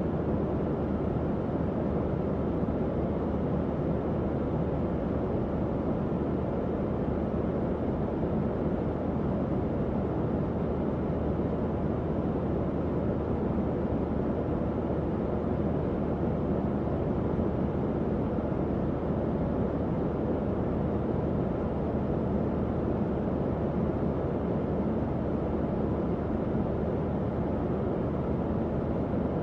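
Tower fan running steadily: an even, low rushing of air with a faint low hum from the motor.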